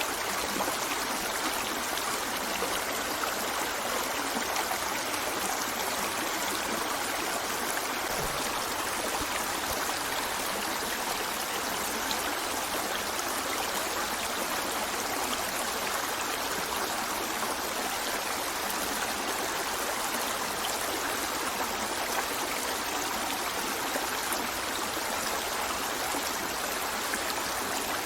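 River water running over stones, a steady rushing and babbling with no pauses or changes.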